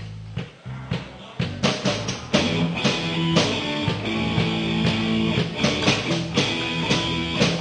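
Live rock band playing with electric guitar, bass and drum kit: low bass notes at first, then the drums and guitar come in fully about a second and a half in, with sharp drum hits.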